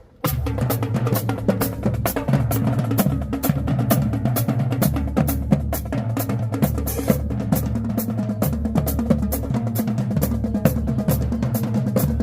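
High-school marching band playing while marching off: a drumline's snare hits over a line of deep, sustained bass notes. It starts suddenly about a quarter second in.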